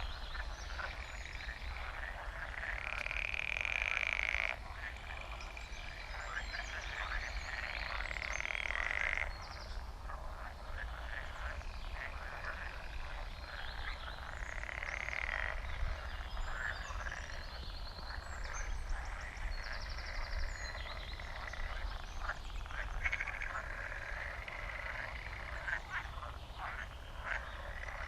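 Dense chorus of frogs croaking, many calls overlapping in rapid rattling trills, with birds chirping faintly above. The chorus drops abruptly in level twice, about four and nine seconds in.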